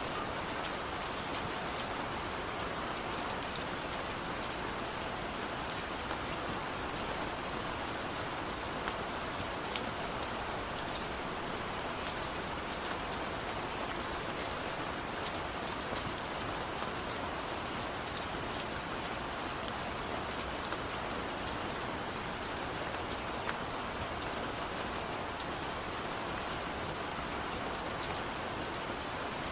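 Steady rain falling, an even hiss with scattered sharp ticks of individual drops; no thunder.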